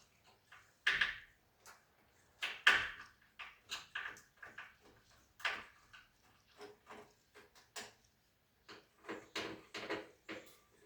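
A run of irregular knocks and clicks, as of parts and tools being handled and set down, with two louder knocks about a second and nearly three seconds in, and a cluster of slightly ringing knocks near the end.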